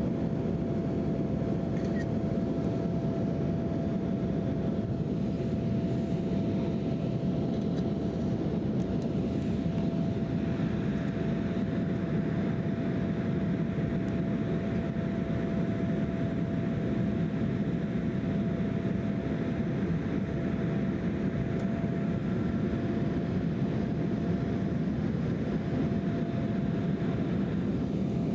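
Embraer E175 jet airliner with its GE CF34 turbofan engines running steadily: a continuous, even rushing noise with one steady tone held above it.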